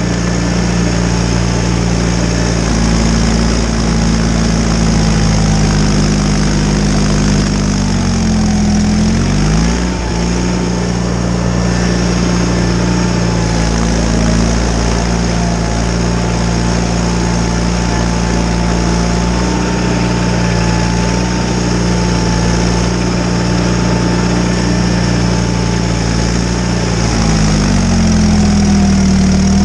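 John Deere 318 garden tractor's Onan two-cylinder engine running steadily and loud. Its pitch drops briefly and recovers about eight seconds in, and again near the end.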